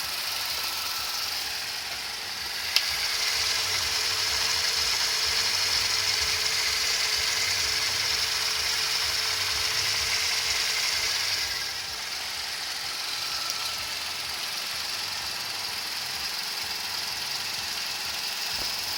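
Toyota 2ZR-FE inline-four engine idling steadily with a newly replaced air-conditioning compressor pulley bearing. A sharp click comes about three seconds in. A higher hiss then grows louder and drops back near twelve seconds in.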